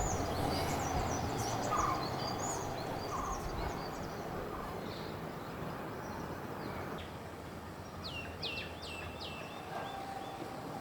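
Small birds chirping and whistling, with a quick run of falling whistled notes about eight seconds in. Soft background music fades out over the first several seconds.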